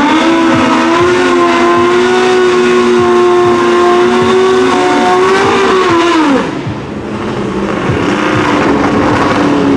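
Two drag racing motorcycles held at high, steady revs with their rear tyres spinning in the burnout, one engine dropping off about five seconds in and the other just after six seconds. They then settle to a lower, steady run.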